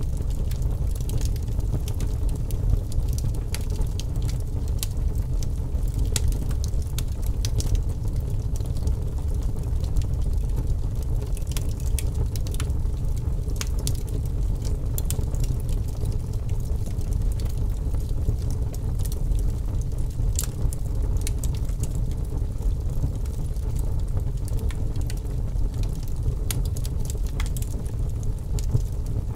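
Wood fire burning in a fireplace: a steady low rumble with irregular crackles and pops from the burning logs.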